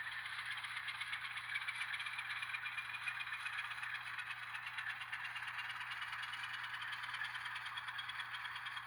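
N scale diecast switcher locomotive with a LokSound decoder running steadily while moving a long train of auto racks: a thin whine that rises slightly and settles back, over a hiss of wheels on track with faint clicking.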